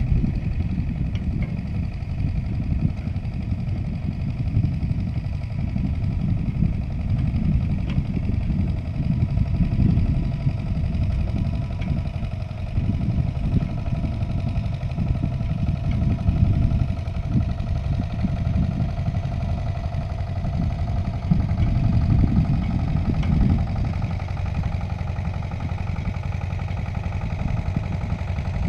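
Agria 8900 articulated tractor's engine running steadily over a heavy, uneven low rumble, its pitch drifting only slightly.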